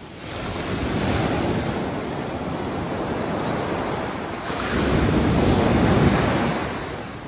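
Ocean waves surging and washing on the shore, in two swells: one building about a second in, a louder one about five seconds in that fades away near the end.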